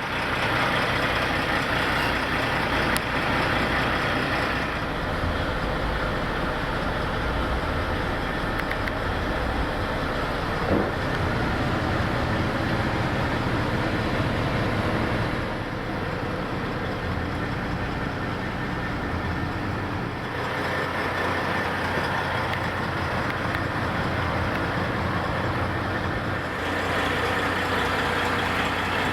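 Caterpillar C15 inline-six diesel engine of a 2007 Kenworth W900 truck idling steadily, its level and tone shifting a few times.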